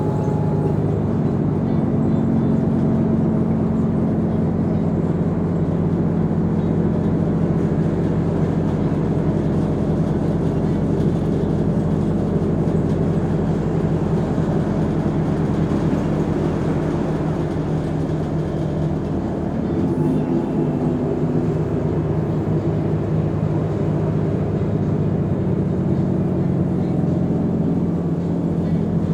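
Mercedes-Benz O345 Conecto G articulated bus's six-cylinder diesel engine running steadily under way, with road noise. The engine dips briefly about two-thirds of the way through, then picks up again.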